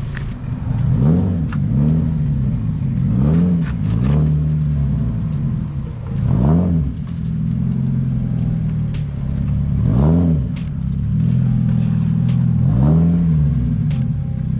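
Car engine idling and revved in about seven quick blips, each rising and falling in pitch, spread across several seconds.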